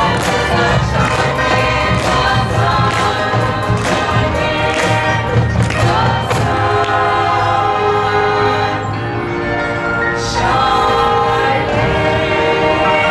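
Marching band playing: full sustained chords with drum strikes under them, easing off briefly and then coming back in with a new loud chord about ten seconds in.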